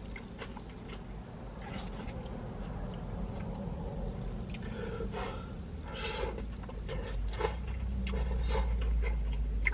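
A person eating pad thai noodles close to the microphone: chewing, with scattered small clicks and scrapes from the utensil and food container. A low rumble grows louder in the second half.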